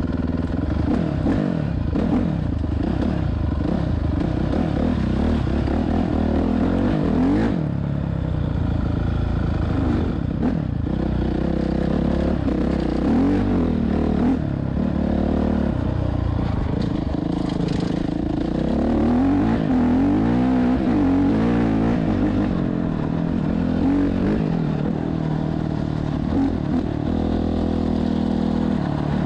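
Motorcycle engines running at riding speed, the pitch repeatedly rising under throttle and dropping back with gear changes.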